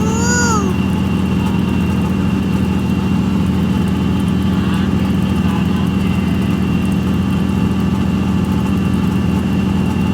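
A passenger train running at a steady pace, its low engine hum and rumble level throughout, with a thin steady whine above it. At the very start a short high voice rises and falls once.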